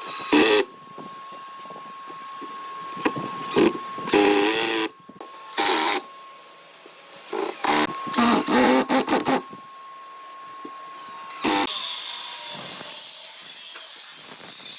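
Electric drill run in short bursts of under a second, with pauses between and a rapid string of bursts about halfway through. A steadier hissing sound takes over near the end.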